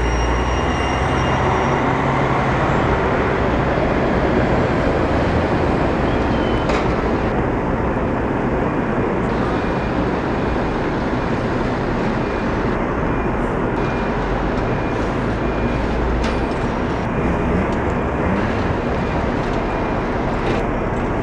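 A Scania-engined Marcopolo Paradiso 1800 DD double-decker coach running under way: a steady, loud engine and road noise, with a few sharp clicks.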